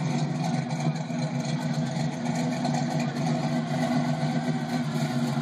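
1972 Chevrolet Monte Carlo's 454 big-block V8 running steadily through new exhaust piping and Flowmaster mufflers, a low, even exhaust note with no revving.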